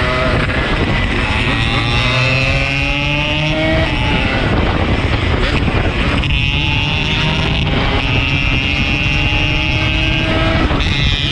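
Yamaha RX-King 135's two-stroke single-cylinder engine accelerating through the gears, its pitch climbing steadily and dropping at a gear change about four seconds in and again near the end.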